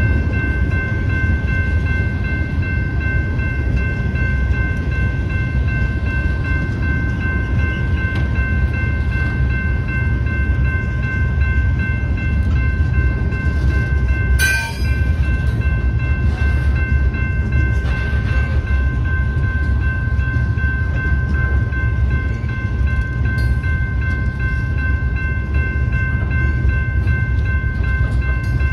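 Freight train rolling past close by, a steady low rumble of cars on the rails with a steady high ringing of several pitches over it. There is one sharp clank about halfway through.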